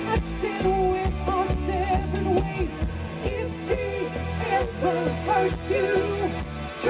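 Live pop band music: a melody line over a steady bass line and drum beat.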